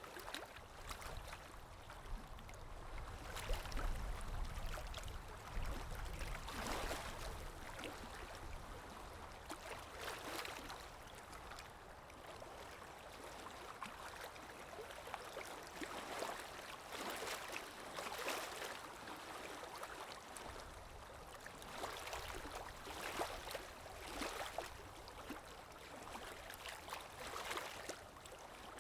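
Running water, with irregular louder splashes every second or two over a steady wash. A faint low rumble sits underneath in the first few seconds.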